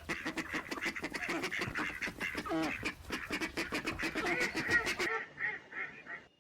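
Several ducks quacking in a fast, dense chatter that breaks off about five seconds in, followed by a few separate quacks.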